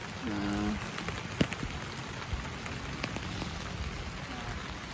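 Light rain falling on a tent, a steady patter with scattered drops ticking on the fabric.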